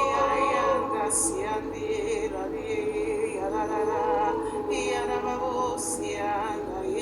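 A voice singing slow, held, wordless-sounding phrases with a wavering vibrato over a sustained instrumental backing, in a worshipful style. Two brief hisses come about a second in and near the end.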